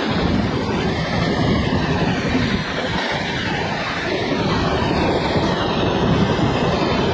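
Indian Railways Duronto Express with LHB coaches running at speed: a steady, loud noise of wheels on rail.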